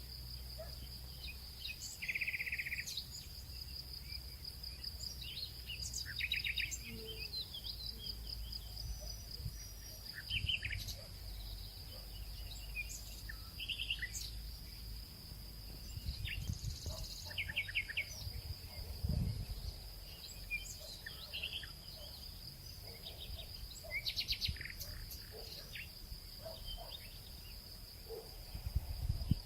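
Nature soundscape: many small birds chirping and trilling over a steady, high insect drone, with a few low thuds.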